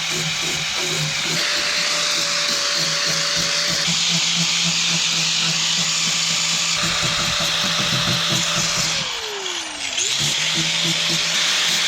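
Angle grinder grinding down cured fiberglass Bondo on a bus hood: a steady, loud motor whine and grinding noise. About nine seconds in the motor is let off and its pitch falls as it slows, then it runs back up to speed a second later.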